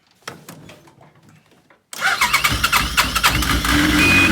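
Yamaha RS Viking Pro snowmobile's four-stroke engine catching suddenly about two seconds in and running loudly, after a few faint clicks. A short high beep sounds several times near the end.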